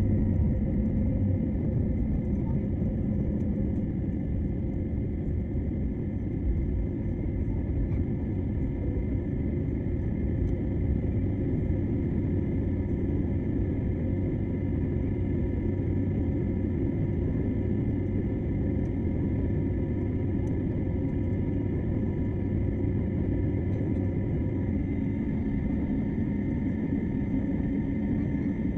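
Airliner jet engines at takeoff power: a steady heavy rumble with a thin high whine over it, unchanging throughout.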